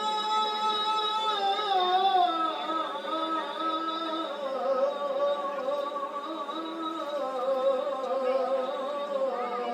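A man's voice singing sholawat in long melismatic lines: it holds a steady note for about a second, then winds through wavering, ornamented turns and slides between held notes.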